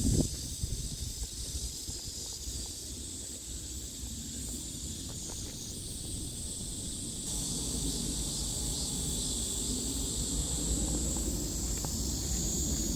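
Steady chorus of cicadas, a high, continuous buzzing hiss that grows louder about seven seconds in, over a low rumbling noise.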